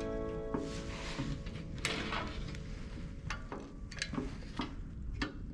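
A series of scattered light clanks and knocks from parts of a steel jig being handled and set down on a workbench, with background music fading out in the first half second.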